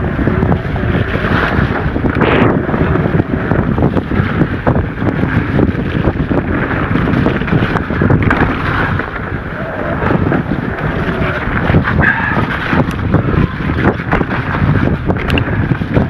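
Wind rushing over the camera microphone while riding an e-mountain bike down a trail, with frequent small knocks and rattles from the bike over the ground.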